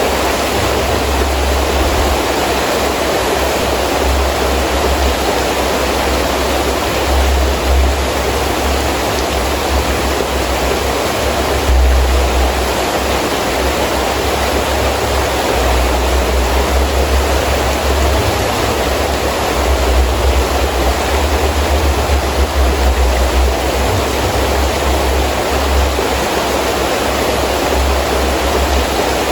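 Heavy rain falling steadily as a dense, even hiss, with wind gusts that come and go as a low rumble.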